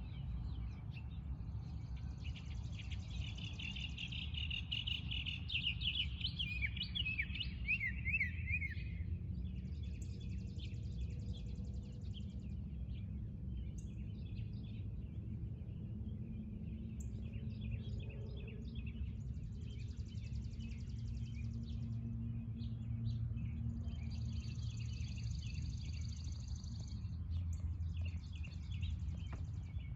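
Several wild birds singing and chirping, with one loud song of quick falling notes in the first few seconds and high buzzy trills of a couple of seconds each repeating through the rest, over a steady low rumble.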